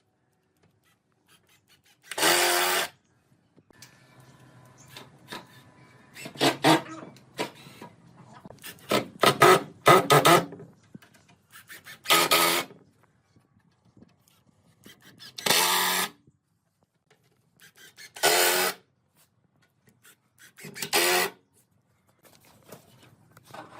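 Repeated rasping strokes of a hand tool working wood, each under a second long, about every three seconds, with lighter knocks and scrapes between them.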